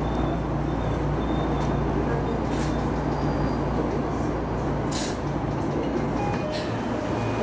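Electric commuter train running along the track, heard from inside the train: a steady rumble and hum with a few brief sharp clicks or squeals. The deepest rumble drops away about six seconds in.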